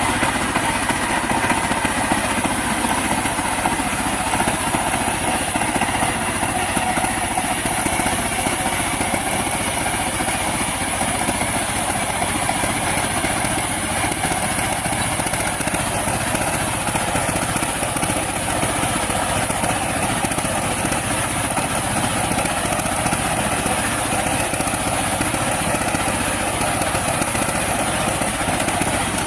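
Power tiller engine running steadily while it tills a field.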